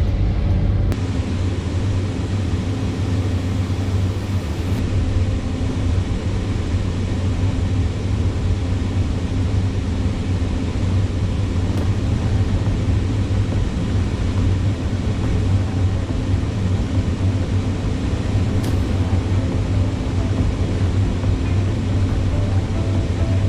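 Excavator's diesel engine running steadily at working revs, a constant deep rumble.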